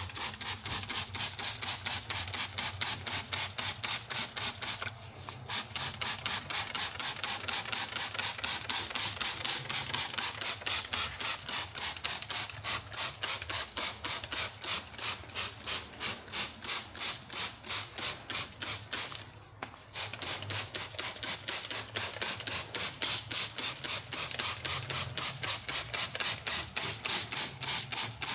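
Trigger spray bottle squirting engine-bay cleaner in rapid, even pumps, each squeeze a short hiss, with two brief breaks about five seconds in and near twenty seconds.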